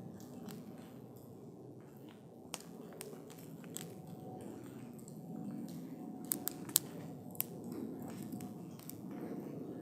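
Wood fire burning, a soft low rush of flames that swells and fades, with sharp crackles and pops from the burning wood, a small cluster of louder pops a little past the middle.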